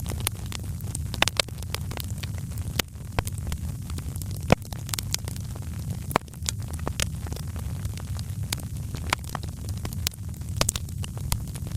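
Wood fire crackling in a fireplace: irregular sharp pops and snaps over a steady low rumble of the flames, with two louder pops near the middle.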